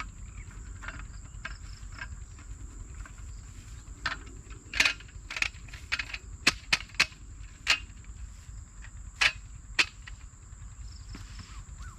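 Insects, crickets or similar, keeping up a steady high-pitched chirring, broken by about a dozen sharp cracks or snaps at irregular intervals, clustered in the middle of the stretch.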